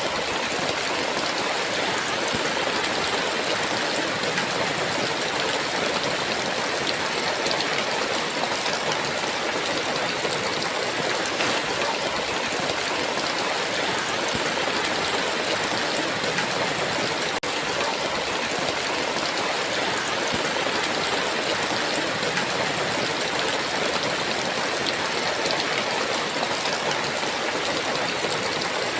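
Heavy rain falling in a steady, even downpour, with no rises, drops or single impacts.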